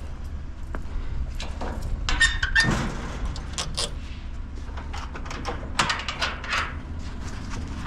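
Scattered knocks, clanks and rattles from a metal barbecue and its utensils being handled, over a steady low rumble.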